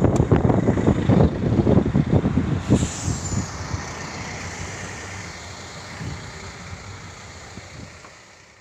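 A motor vehicle running, with a choppy low rumble for the first few seconds and a sharp falling hiss about three seconds in. The noise then fades out.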